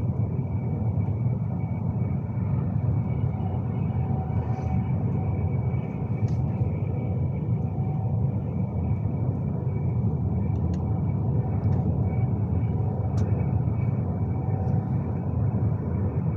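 Steady running rumble inside a Class 390 Pendolino electric train at speed, with wheel and rail noise and faint steady whines, and a few light clicks.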